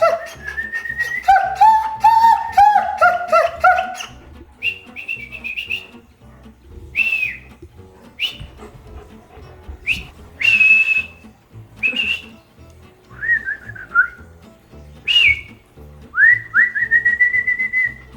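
Whistling: a quick warbling run of notes, then short separate high whistles every second or two, several dropping in pitch, ending with a longer whistle that rises slightly.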